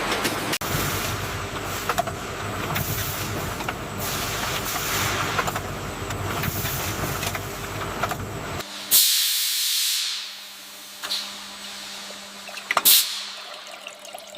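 Factory machinery running with a dense, steady clatter, which cuts off abruptly about two-thirds of the way through. Then comes a loud hiss of air or steam lasting about a second, and a shorter sharp hiss near the end.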